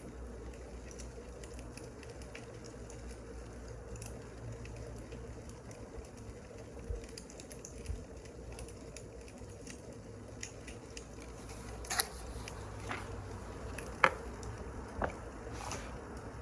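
Burning firewood crackling: scattered soft snaps and pops over a steady low hum, with a few sharper pops in the last few seconds.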